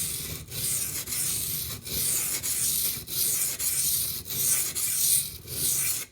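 Steel knife blade stroked back and forth on a coarse 220-grit water stone: about ten even, gritty rasping strokes, roughly one every half second or so, that stop abruptly at the end.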